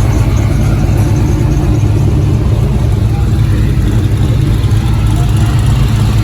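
Car engine running steadily with a constant low drone, no revs or changes in pitch.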